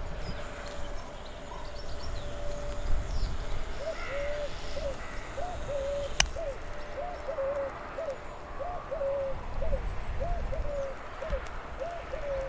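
A bird calling: a long run of short, low notes, each rising and falling, about two a second, starting about four seconds in after a steady low tone. A single sharp click about six seconds in.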